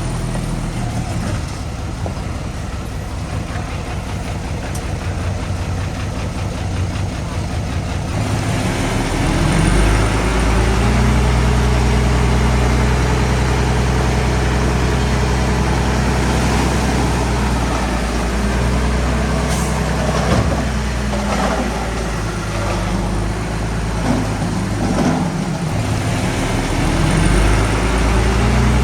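Heavy diesel machinery engine running steadily, growing louder about a third of the way in as it works harder or comes closer, with a few short knocks later on.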